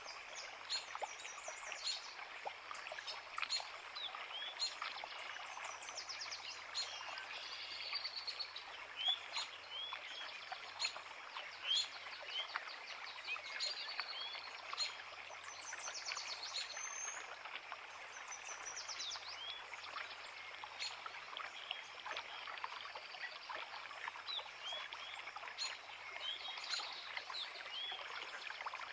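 Creek water running steadily, with many birds singing over it: short repeated chirps and several fast trills.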